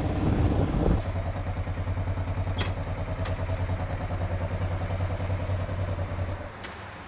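Motorcycle engine idling with a steady, even pulse, then switched off about six and a half seconds in. The first second holds the tail of background music.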